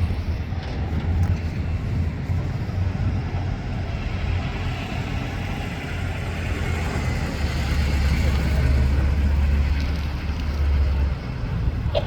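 Car engine running, a low steady drone that swells and grows loudest for a few seconds past the middle, over general vehicle noise.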